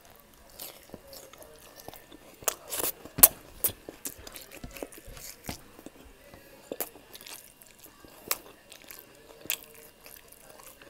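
Close-miked chewing of pork liver steak and rice: irregular wet mouth clicks and bites, the loudest cluster about three seconds in.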